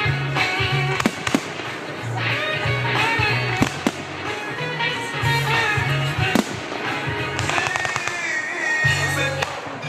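Fireworks going off in sharp, scattered bangs, with a quick run of crackles about three-quarters of the way through, over loud music with a pulsing bass line.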